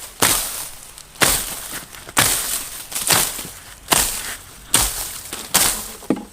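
Repeated chopping strokes of a hand tool, about one a second, each a sharp hit that fades quickly.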